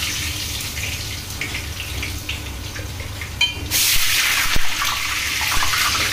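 Potato chunks deep-frying in hot oil in a kadai: a steady sizzle with small crackles. The sizzle dips briefly, then swells louder about three and a half seconds in as more pieces go into the oil.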